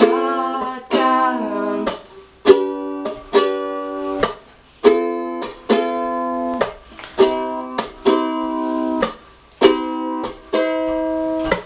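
Concert ukulele strummed in chords, with a sung word held over the first couple of seconds; then about a dozen strums of the chords alone, each ringing out and fading before the next.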